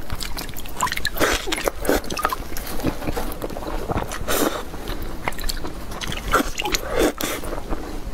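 Close-miked chewing of soft bread: wet, irregular mouth smacks and clicks.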